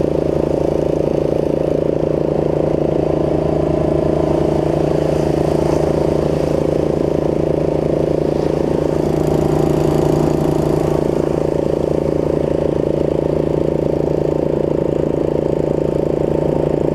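Snapper rear-engine riding mower's small engine running steadily, with the mower deck driven by its new deck belt.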